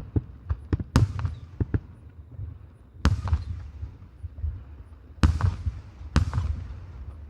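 Aerial firework shells bursting: loud booms about a second in, about three seconds in and twice near the end, with smaller sharp cracks between them over a steady low rumble of echoing bursts.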